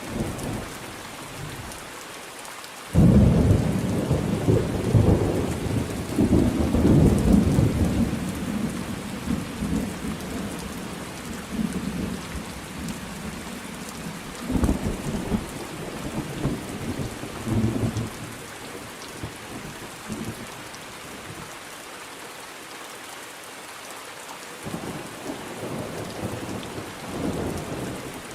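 Steady rain with rolling thunder: a sudden loud thunderclap about three seconds in that rumbles on and slowly dies away over some fifteen seconds, then fainter rumbles near the end.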